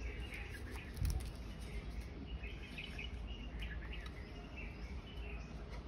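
Small birds chirping in the background over a steady low rumble, with one soft thump about a second in.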